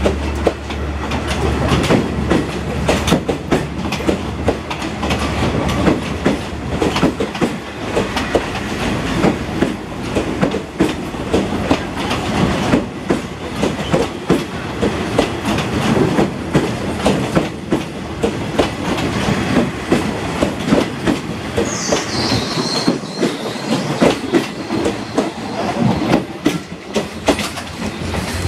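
Train cars rolling past, their wheels clacking irregularly over rail joints, over a steady rumble. About 22 seconds in there is a brief high, falling wheel squeal.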